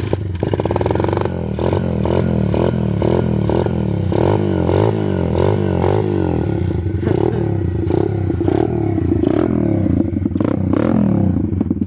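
A 125cc pit bike engine that has just started cold with the choke on, running loud, its revs swelling and falling over and over in quick regular pulses.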